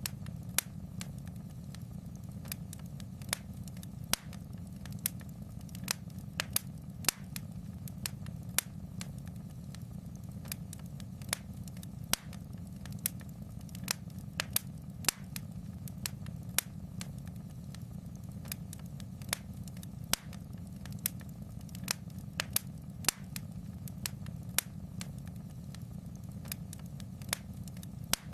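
Fireplace fire crackling: sharp, irregular pops, one to three a second, over a steady low rumble.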